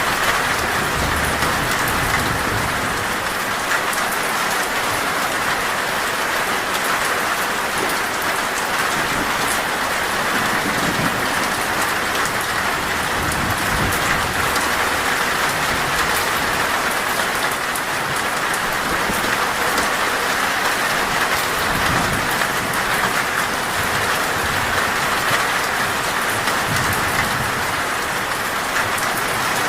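Torrential rain falling steadily on a metal roof.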